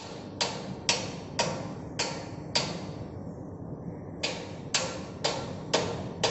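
Hammer blows on metal, about two a second, each with a short ringing tail: a run of five, a pause of about a second and a half, then five more.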